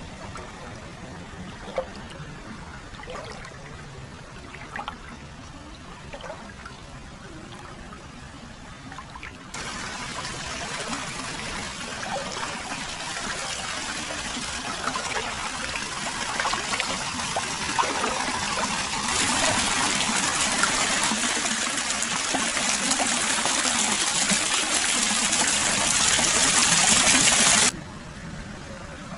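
Hot-spring water pouring continuously into an open-air foot bath: a soft trickle with small splashes at first, then much louder, steady rushing water from about ten seconds in, louder again about halfway, cutting off abruptly near the end.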